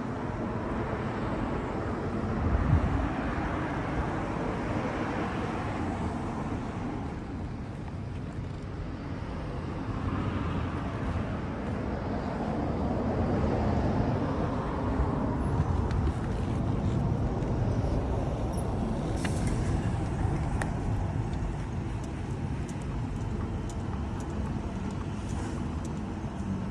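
Hitachi BS30YA hollow-chisel mortiser running under power, its rotating auger and square chisel boring a deep mortise with automatic feed. The machine noise is steady and rises and falls in level a few times, with a brief louder knock about three seconds in.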